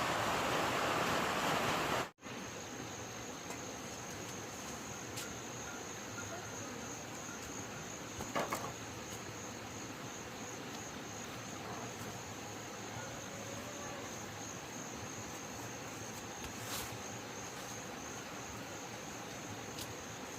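A loud rushing noise cuts off suddenly about two seconds in. After it a cricket trills steadily in a high, faintly pulsing tone over quiet background hiss, with a few soft clicks.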